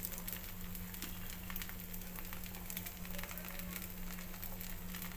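Uttapam batter frying on a hot non-stick pan: a faint, steady sizzle with fine crackles, over a steady low hum.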